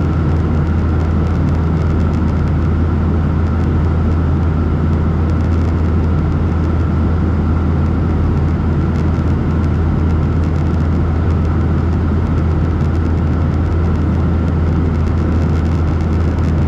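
Steady cabin noise of a Boeing 737-800 in flight, from its CFM56 engines and the airflow, heard inside the cabin: a constant low hum with a faint steady higher tone.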